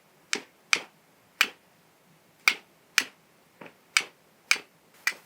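Steel striker being struck against flint to throw sparks onto char cloth or charred fungus, in a series of about nine sharp, irregularly spaced strikes, roughly two a second.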